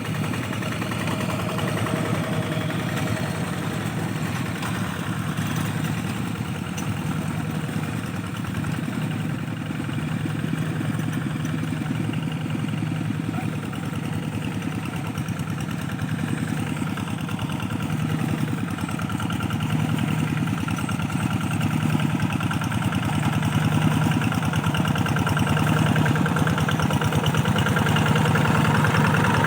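A rice-field tractor's engine running steadily without a break. It grows slightly louder toward the end.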